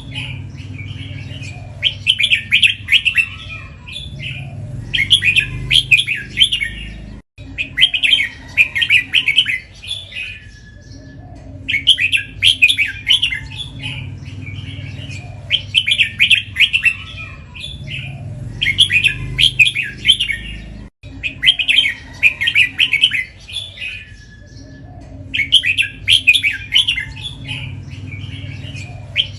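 Red-whiskered bulbul singing loud, warbling song phrases, each about a second long, repeated every two to three seconds with short pauses between.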